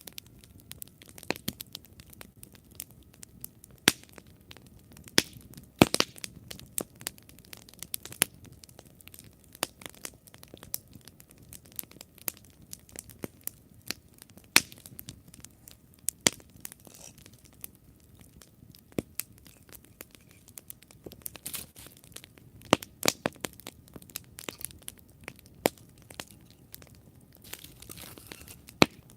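Wood campfire burning with irregular sharp crackles and pops over a soft low hiss of the flames, a few pops much louder than the rest.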